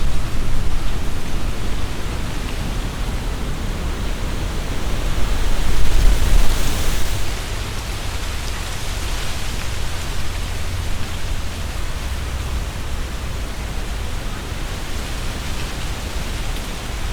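Strong wind gusting through tree leaves, with a low rumble of wind buffeting the microphone; a gust swells to its loudest about six seconds in and eases after about seven seconds.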